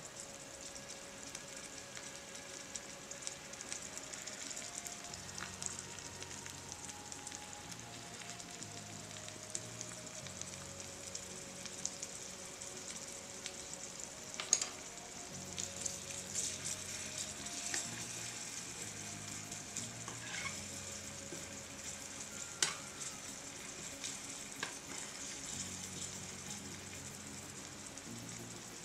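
Oil sizzling in a small steel cooking spoon as chopped vegetables fry in it, with a few sharp clicks of stirring against the metal.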